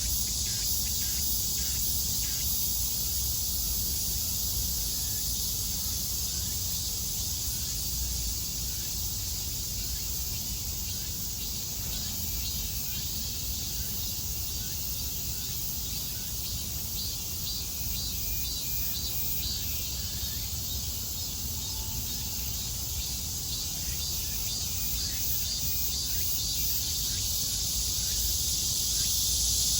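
A summer chorus of cicadas droning as a dense, steady high-pitched hiss. Short ticking notes come through in the middle, over a low rumble, and the chorus swells a little near the end.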